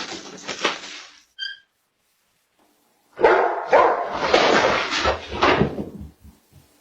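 A dog barking loudly in two bouts, a short high yelp between them.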